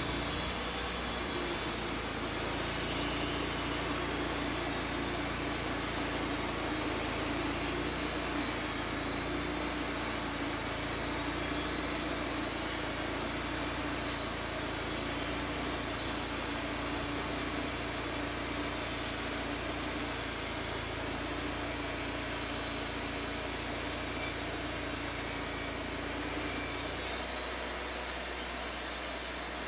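Portable sawmill running steadily: a constant engine drone with a hiss over it and no breaks.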